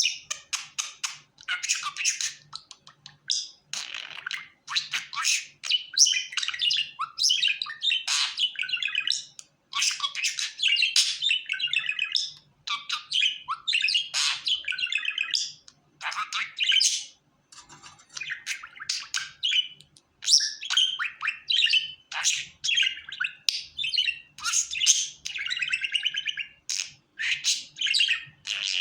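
Pet budgerigar chattering and warbling: quick, high-pitched runs of chirps and squeaky notes, broken by brief pauses of a second or so.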